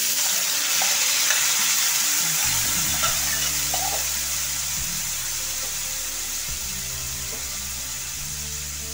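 Yogurt-marinated cauliflower florets hitting hot oil in a wok and sizzling loudly, the sizzle slowly dying down as they are turned with a metal ladle.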